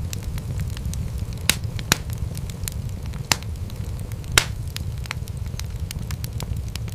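Wood fire in a fireplace crackling: a steady low rumble of flames under constant small crackles, with four louder, sharper pops of the burning wood in the middle seconds.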